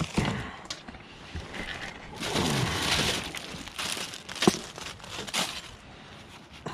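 Decorations being handled, with sharp clicks, knocks and rustling, and a loud, drawn-out burp about two seconds in.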